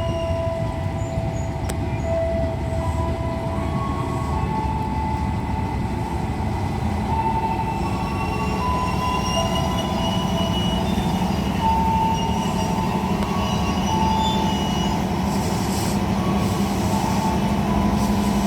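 Electric commuter train pulling into the platform: a steady rumble of the cars on the rails with short, intermittent wheel squeals and a low hum that grows stronger in the second half.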